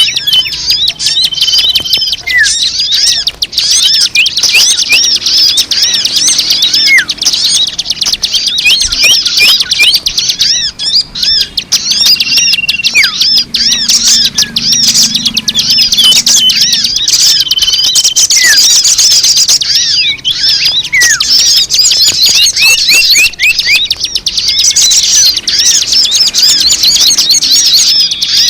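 Dense chorus of many small birds chirping and twittering rapidly and continuously, high-pitched, with a few short whistled notes mixed in: a bird-lure (pemikat) call recording.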